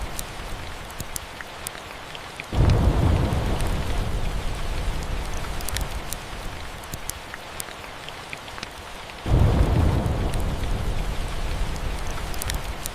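Steady rain with two rolls of thunder, each breaking suddenly, the first about two and a half seconds in and the second about nine seconds in, then rumbling away over several seconds. Scattered small crackles of a fireplace sound through the rain.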